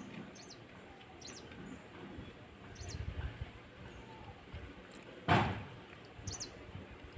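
A small bird chirping in short, high notes about once a second, over faint handling noise. About five seconds in, a brief loud rushing sound.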